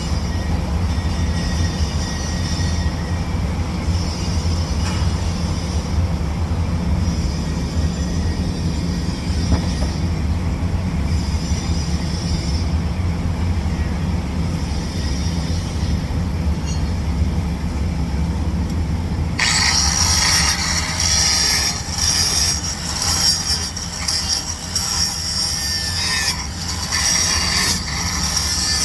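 A steady low machine hum runs throughout. About two-thirds of the way in, a loud, harsh, crackling hiss starts suddenly and goes on in uneven pulses over the hum.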